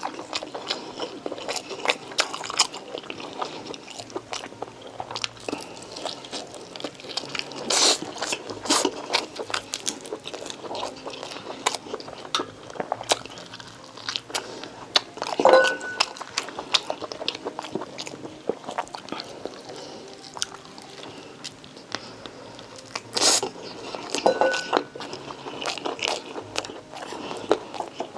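Close-miked eating: a person chewing and biting food, with frequent sharp wet clicks and crunches, a few louder clusters along the way.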